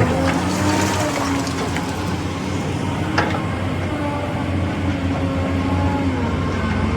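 Heavy diesel machinery running steadily, with a low hum and a few tones that drift slowly in pitch. There is a single sharp knock about three seconds in.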